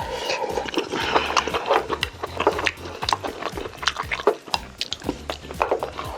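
Close-miked eating sounds: a fast, irregular run of wet slurps, chewing and mouth clicks as stew and grilled food are eaten.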